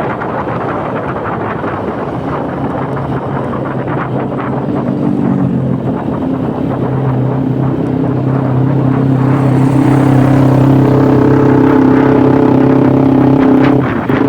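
Honda Beat scooter's single-cylinder engine with an aftermarket exhaust, under way with wind rushing over the microphone. The engine note comes up out of the wind about two seconds in and grows louder and steadier as the throttle opens, dipping briefly near the end.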